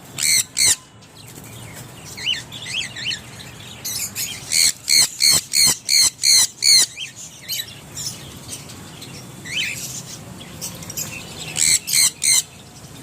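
Birds calling: loud, harsh, high-pitched squawks in short runs, about three a second, with softer chirps between them.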